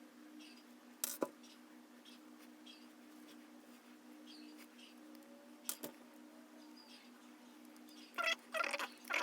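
Small metal parts of a Traxxas Velineon brushless motor being handled during reassembly: a couple of sharp clicks, then a quick run of metallic clinks and rattles near the end, over a steady low hum.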